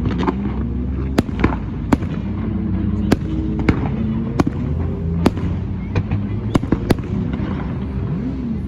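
Fireworks going off: an irregular run of sharp bangs, about two a second, over a continuous low rumble.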